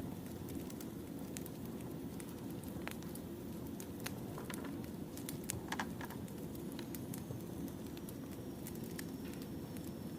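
Wood fire burning: a steady low rumble with frequent sharp crackles and pops from the burning logs, and a quick flurry of pops about halfway through.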